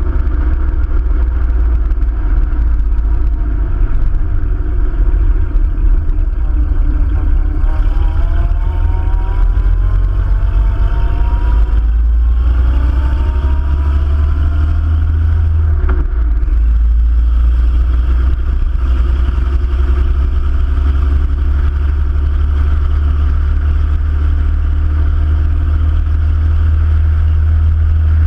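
Hispano-Suiza Tulipwood's engine pulling the car along at road speed under heavy wind rumble. Its note rises twice in the middle as the car accelerates, then drops suddenly about two-thirds of the way through.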